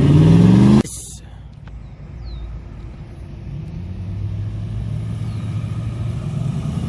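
Car engine revving hard under acceleration, its pitch climbing, then cutting off abruptly less than a second in with a short sharp burst of noise. Quieter engine sound follows and slowly builds again as another car comes up.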